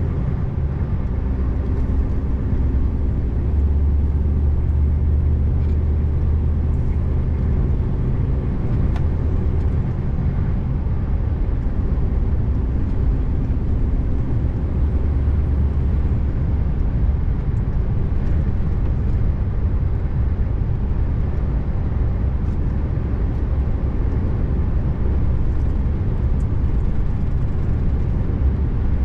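Scania R590's V8 diesel engine running steadily as the truck drives along, a deep even hum over road noise.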